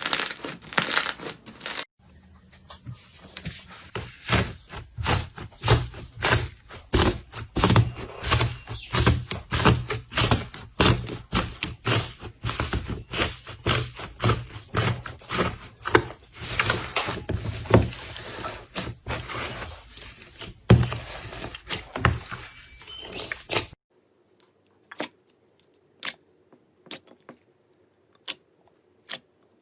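Hands playing with slime close to the microphone: a dense run of sharp clicks and pops as it is pressed and stretched. About three-quarters through, this changes to sparser, quieter clicks.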